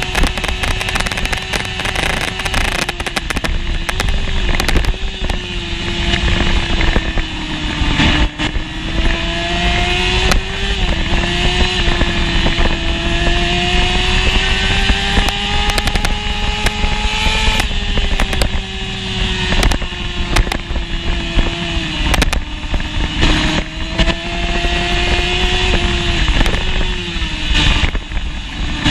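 Honda CBR600F1 inline-four engine revving hard at racing speed, heard from on board. Its pitch climbs slowly and drops sharply about four times as the rider shifts or shuts off, over heavy wind rush on the microphone.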